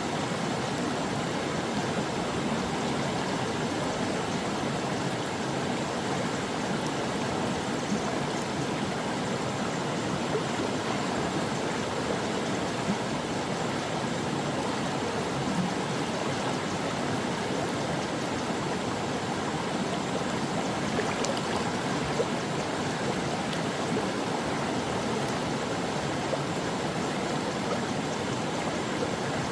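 Stream water flowing steadily over rocks, a continuous rushing and gurgling with small splashes.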